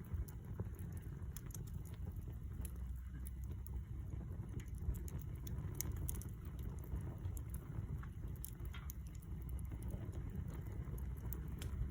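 Wood campfire crackling, with scattered sharp pops and snaps over a low steady rumble.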